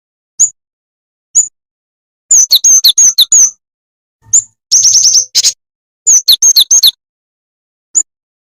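Bird-lure recording of a jingjing tetep bird calling. Short, high chirps come singly, with three rapid bursts of chirps, some notes sliding down in pitch.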